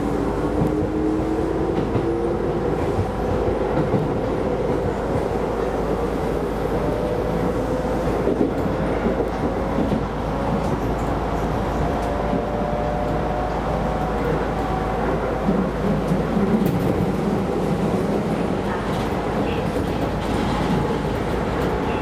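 Keisei Line electric train running, heard from inside the front car: the traction motor whine rises in pitch early on as the train gathers speed, then holds steady over continuous rolling noise. A few rail-joint clicks come through later.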